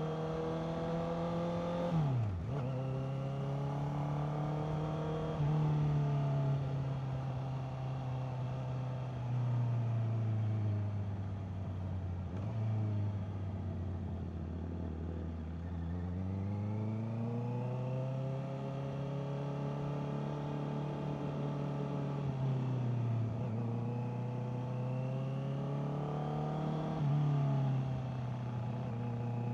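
Honda CBR650R's inline-four engine running under way, its pitch rising and falling with the throttle and gear changes. There is a sharp drop and recovery about two seconds in, a slow fall and climb in the middle, and quick dips near the end.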